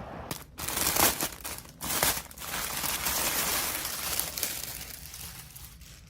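Crinkling and rustling of packaging being handled, in several irregular bursts with softer rustling between.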